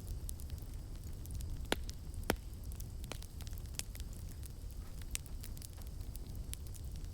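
Campfire crackling: irregular sharp pops and snaps over a steady low rumble, with two louder pops a little under halfway through.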